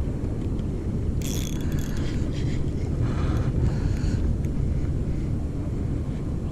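Fishing reel rattling in two short bursts, about one and three seconds in, as it is wound against a heavy fish on a very tight drag, over a steady low rumble of wind on the microphone.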